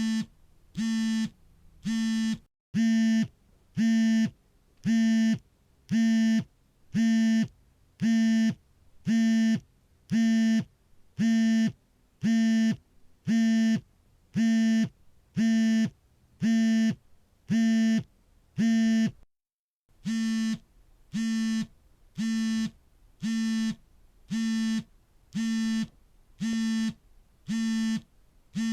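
Smartphone vibration motor buzzing in short, even pulses, about two a second, as the phone rings on silent. The pulsing stops briefly twice, about two and a half seconds in and again near twenty seconds.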